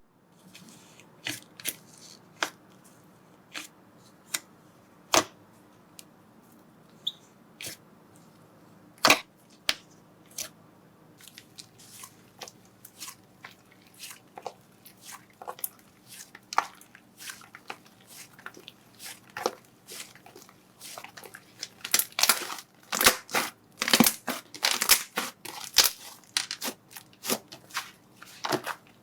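Slime being pressed and worked by hand, giving scattered crisp pops and crackles. These thicken into a dense, louder run of crackles about three-quarters of the way through.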